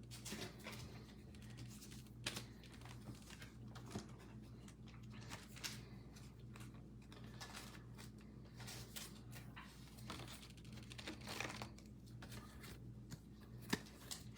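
Faint, scattered rustling and soft clicks of trading cards and foil pack wrappers being handled, over a low steady hum.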